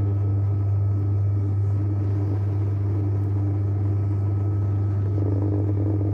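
JW Ratcliffe and Sons electric pottery wheel running under a throwing load, its motor giving a steady low hum with a fainter, higher steady whine above it.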